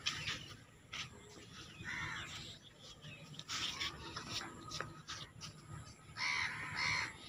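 Crows cawing several times, with two caws close together near the end.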